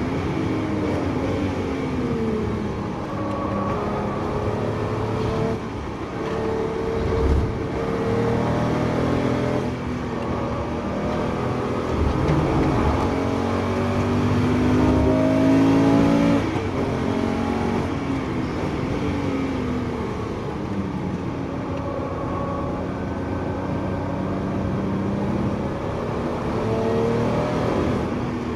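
Porsche 911 GT3 RS flat-six engine heard from inside the cabin, driven hard on track: its pitch repeatedly climbs and drops back as it brakes with downshifts into corners and accelerates out through the gears.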